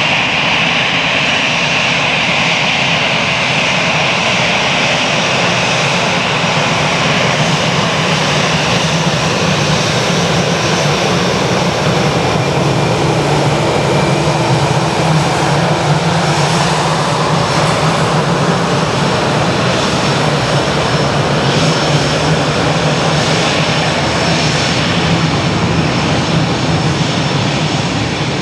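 Airbus A320 jet engines running loud and steady. A high whine fades over the first several seconds while a deeper drone builds.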